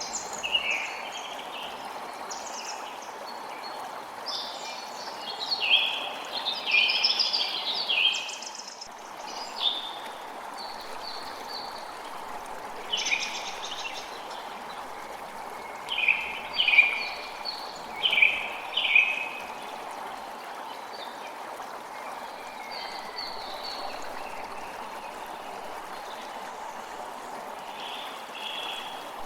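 A creek running steadily, with songbirds singing short bright chirping phrases over it, most busily about five to nine seconds in and again about sixteen to nineteen seconds in.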